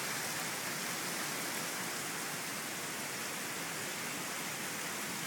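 Steady rain falling, an even hiss with no break or change, picked up by an iPhone 3GS microphone.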